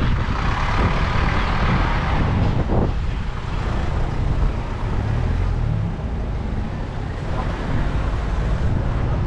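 Road traffic: a vehicle passes close by during the first three seconds, over a steady low rumble of street traffic.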